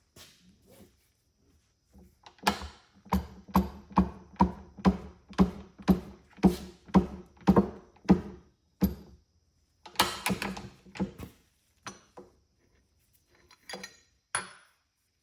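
Metal-on-metal knocks from work on a connecting rod's wrist pin bushing: a steady run of ringing strikes, about two a second, for several seconds, then a quick cluster and a few scattered knocks.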